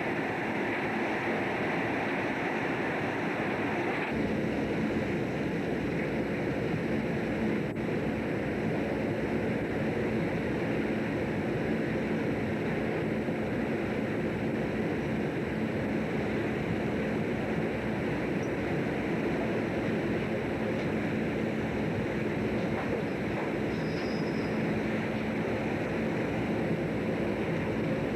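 Steady noise aboard a fishing boat at sea: the boat's engine drone with the wash of water and wind on the microphone. A deeper rumble comes in about four seconds in.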